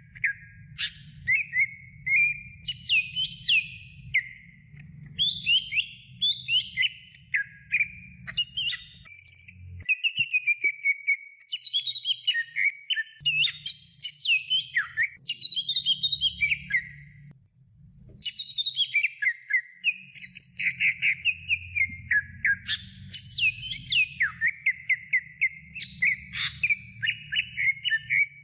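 Green leafbird (cucak hijau) singing a long, varied run of rapid chirps, whistles and gliding warbled phrases, breaking off briefly about 17 seconds in, over a faint low hum.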